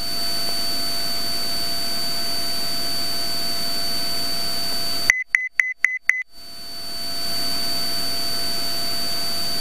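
Steady cockpit noise and hiss over a Cessna 182 Skylane's headset audio, with a faint high whine. About five seconds in, it cuts out for about a second while five quick high-pitched electronic beeps sound, then fades back in.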